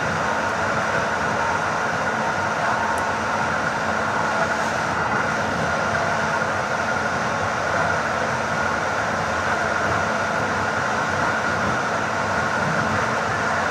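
Steady running noise of a PKP Intercity train at speed, heard from inside the passenger coach: an even rumble and hiss with a steady higher hum.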